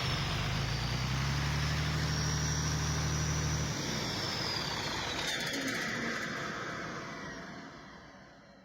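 Deutz BF12L513 turbocharged, air-cooled V12 diesel running steadily, then shut off a little under four seconds in. A high whine glides down in pitch and the sound dies away as the engine winds down.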